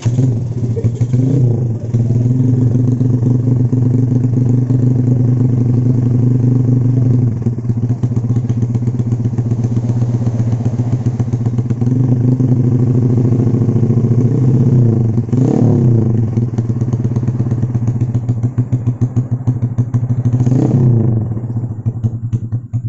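Honda Karisma 125 single-cylinder four-stroke, bored up with a Honda Sonic piston, ported head and custom cam, idling loudly through a stainless Proliner TR1R aftermarket exhaust. Its throttle is blipped three times: once right at the start, once past the middle and once near the end.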